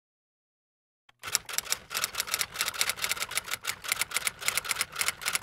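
Typewriter-style typing sound effect: a rapid, even run of key clacks, about seven a second, starting about a second in.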